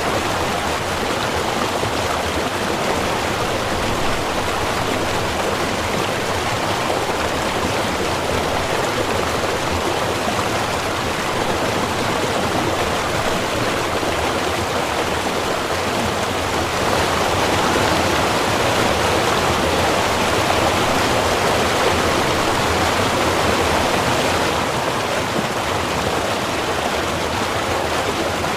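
Small river or stream running, a steady rushing of water that swells slightly for several seconds past the middle.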